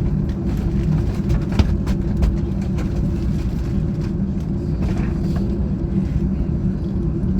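Steady low drone inside a parked airliner's cabin: the air-conditioning and ventilation hum, with a few faint clicks.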